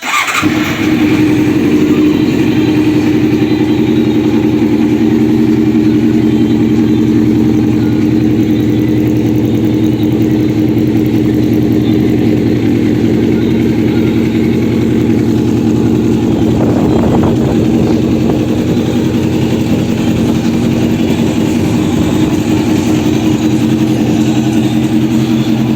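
1988 Honda CBR600F1 Hurricane's inline-four engine running at a steady idle, coming in suddenly at the start.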